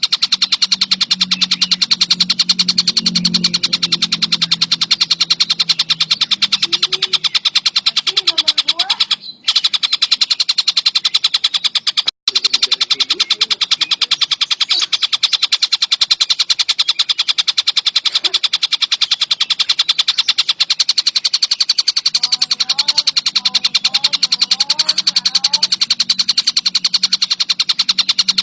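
Tengkek buto kingfisher giving a continuous, rapid rattling call, the repeated notes strongest in a high band. The call is cut off briefly twice, about nine and twelve seconds in.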